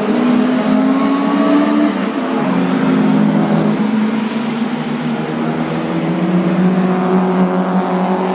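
Engines of several Japanese track-day cars running hard around a race circuit, a steady loud note that steps down in pitch about two seconds in and sinks a little lower as the cars move away.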